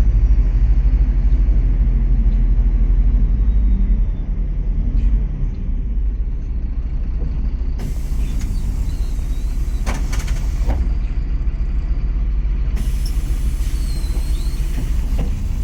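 MAZ-103 city bus heard from inside while driving: a steady low engine rumble that eases off about four seconds in. Two stretches of air-system hiss follow, about halfway through and again near the end, with a few knocks during the first.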